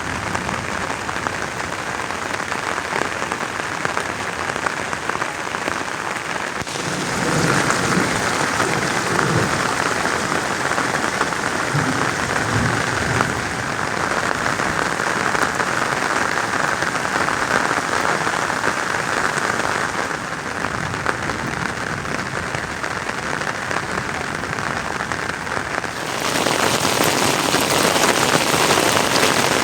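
Steady rain falling, an even hiss that shifts abruptly in tone and loudness about 7, 20 and 26 seconds in.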